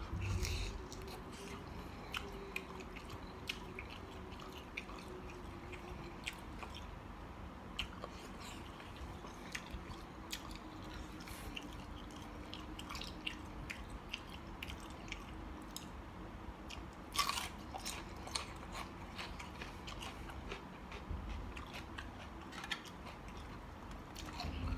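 A person chewing and biting into a spicy seafood salad of squid and shrimp close to the microphone, with wet mouth clicks and crunches scattered irregularly and a louder cluster about seventeen seconds in.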